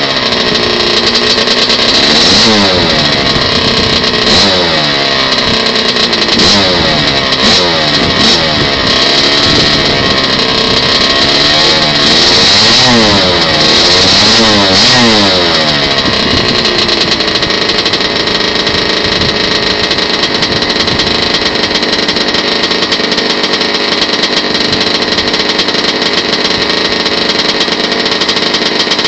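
Kawasaki KX100 two-stroke single-cylinder dirt bike engine, through an FMF Gold Series pipe and Powercore 2 silencer, warming up after a cold start. It is revved up and down over and over for roughly the first half, then settles to a steady run.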